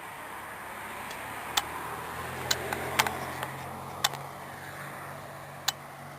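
Stock exhaust of a 1994 BMW 325is E36, its 2.5-litre straight-six running at a steady pitch. About five sharp clicks sound over it.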